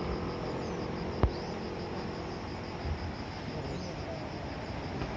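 Insects chirping in a fast, even pulse of several beats a second over low background noise, with one sharp click about a second in.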